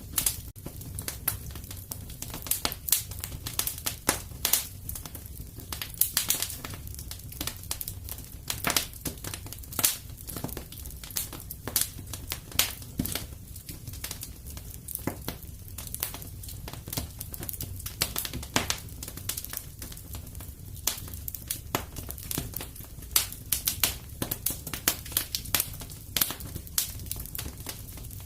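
Fireplace fire crackling, with many irregular sharp pops and snaps over a low steady rumble.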